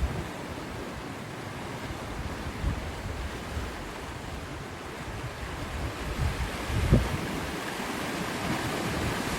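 Steady outdoor rush of wind, with gusts buffeting the microphone about three seconds in and again around seven seconds.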